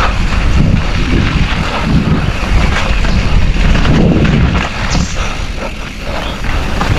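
Mountain bike riding a rough dirt trail: tyres rolling over stones and bumps with frequent knocks and rattles from the bike, and wind rumbling on the microphone.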